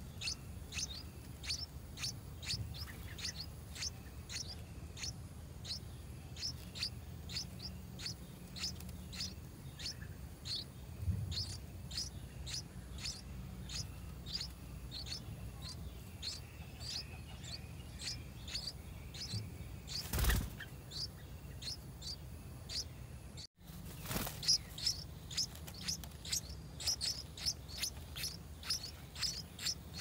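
Bird chirping: short, high, downward-sweeping chirps repeated about twice a second, busier near the end. A single knock about two-thirds of the way in is the loudest sound.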